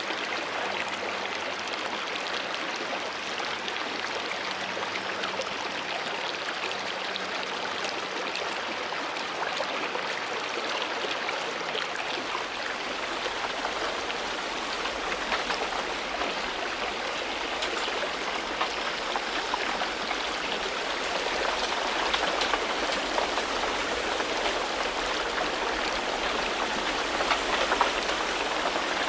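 Steady splashing of running water, a dense patter of small drops and trickles that grows slightly louder in the second half.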